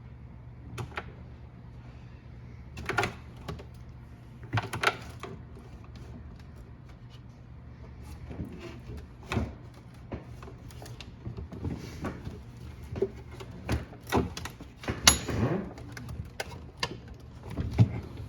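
Scattered clicks, knocks and rattles from hands and tools handling plastic appliance parts, busier in the second half, over a steady low hum.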